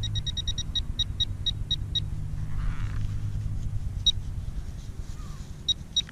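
Teknetics Tek-Point pulse-induction pinpointer beeping in short, high beeps that come quickly at first, then space out and stop about two seconds in. There is a single beep near four seconds and another quick run near the end: the pinpointer is signalling metal in the hole. A steady low rumble runs underneath.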